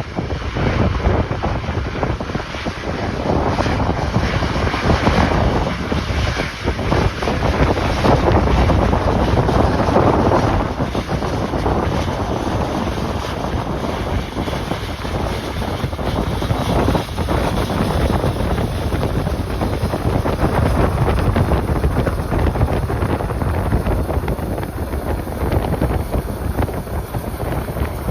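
Strong, gusty wind buffeting the microphone: a loud, rumbling rush that swells for several seconds in the middle and then eases.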